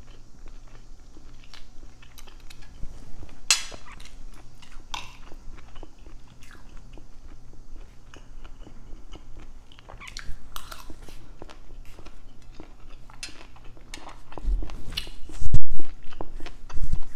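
Close-miked chewing of rice, sardines and string beans, with small mouth clicks throughout. A few loud thumps come in the last few seconds.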